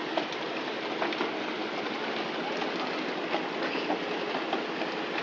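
Steady rushing and rattling noise of a fishing boat underway, with faint scattered knocks.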